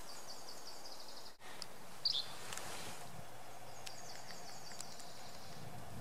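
Outdoor forest ambience with wild birdsong: a fast, high trill of repeated notes twice, once at the start and again from the middle on, and a single short, sharp call just after two seconds in. The sound drops out briefly a little over a second in.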